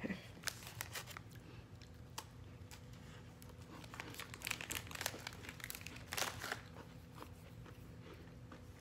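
Faint crunching as a crisp cocoa cream mosaic cookie is bitten and chewed, with crinkling as of its wrapper. Scattered crackles, busiest in the middle.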